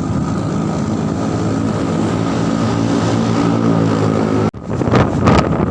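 A motor engine running at a steady speed, cut off abruptly about four and a half seconds in, followed by loud rustling noise.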